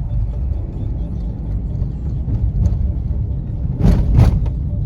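Road noise inside a moving car's cabin: a steady low rumble from the tyres on a broken road surface. About four seconds in come two sharp thumps in quick succession as the car jolts over the rough road.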